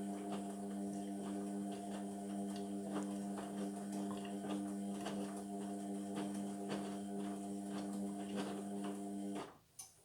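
Indesit washing machine mid-cycle on a synthetics wash, a steady electric hum over water splashing and small ticks. It cuts off abruptly near the end, followed by a single click.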